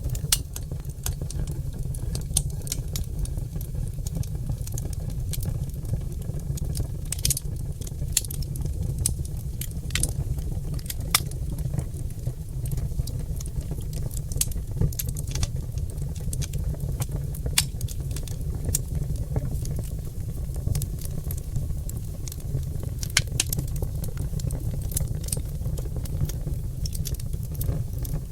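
Oak logs burning in a fireplace: irregular crackles and sharp pops over a steady low rumble.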